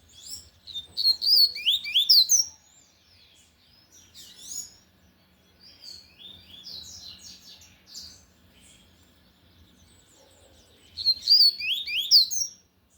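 Double-collared seedeater (coleiro) singing its loud 'tui-tui' song: quick, high whistled notes sweeping up and down. Two loud phrases, about a second in and near the end, with softer chirping between.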